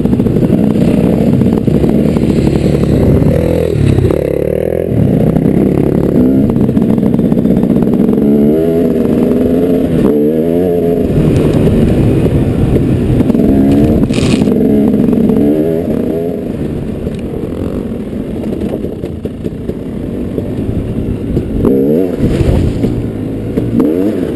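Dirt bike engine running while riding, its pitch rising and falling with the throttle. It drops quieter about two-thirds of the way through, then picks up again near the end.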